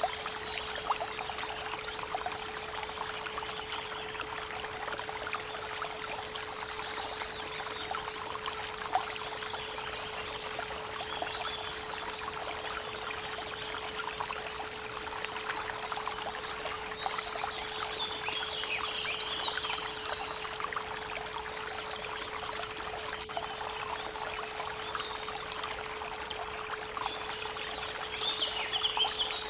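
Creek water running steadily, with birds singing in short chirps and trills several times, under a steady 432 Hz pure tone.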